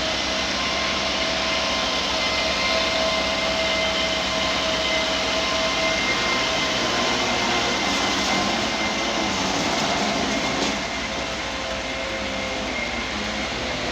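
Heavy diesel machinery running steadily, a constant engine noise with a held whine, dipping slightly in level about eleven seconds in.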